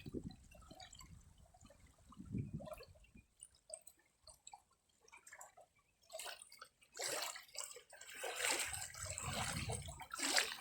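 Faint water sounds: small drips and plops of river water at the bank. From about six seconds in, a louder stretch of splashing and rustling noise joins them.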